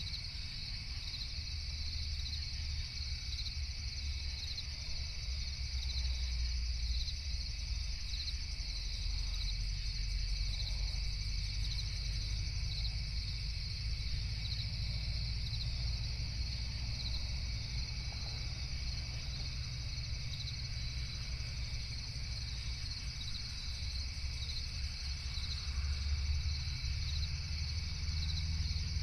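Night chorus of crickets trilling steadily, a fast even pulsing high up, over a low steady rumble.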